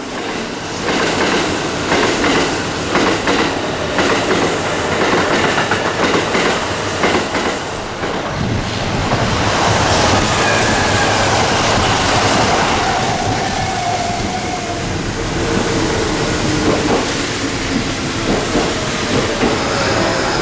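Kintetsu electric train running close by, its wheels clacking over the rail joints for the first several seconds, then settling into a steadier rumble with a faint tone sounding for a few seconds in the middle.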